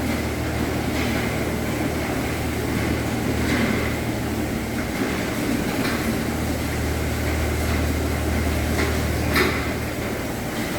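Steady low mechanical hum under a constant rushing noise, with a few short knocks or clanks, the sharpest about nine seconds in.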